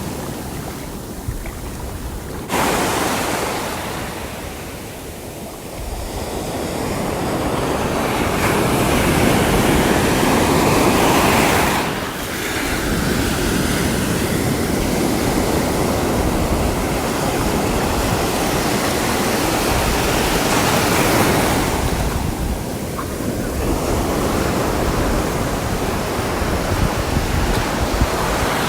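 Sea waves breaking and washing in slow surges that build over several seconds and fall away, with wind rumbling on the microphone.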